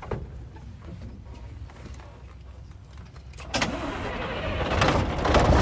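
Scania T460's V8 diesel truck engine: a quiet low rumble, then a sudden jump about three and a half seconds in as the engine fires and revs, getting louder toward the end.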